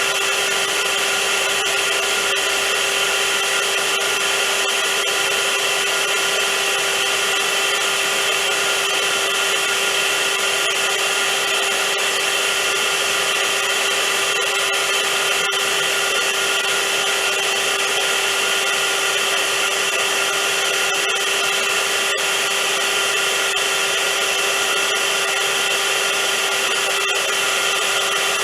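Vacuum cleaner motor running steadily: a constant rush of air with a steady hum and a higher whine that never changes.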